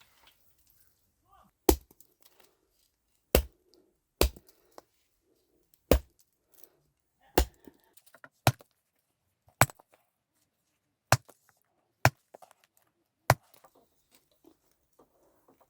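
Axe chopping into wood: ten sharp, separate blows about a second or a second and a half apart.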